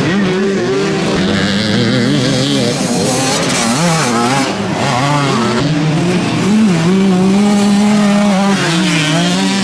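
Motocross motorcycle engines racing, their pitch rising and falling with throttle and gear changes, with more than one bike heard at once. About six and a half seconds in, one engine holds a steady high note for nearly two seconds.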